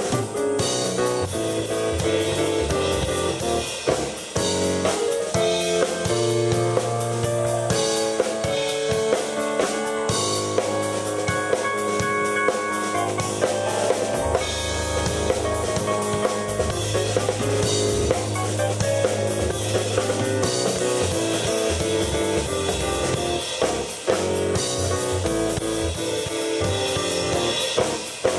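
Live rock jam on keyboard and drum kit: the keyboard plays held chords and melodic lines over steady drumming, with short breaks in the beat about 4 and 24 seconds in.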